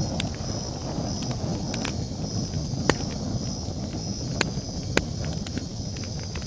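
Campfire crackling: irregular sharp pops and snaps, the loudest about three and five seconds in, over a steady low rumble of the burning wood. High in the background, night insects chirp in a steady pulse about twice a second.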